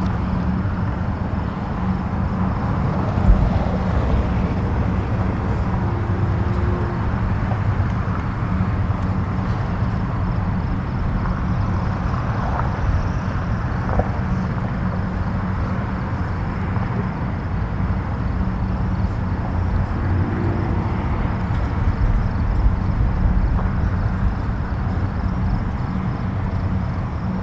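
Distant highway traffic: a steady, low rumble and hiss of many vehicles blended together.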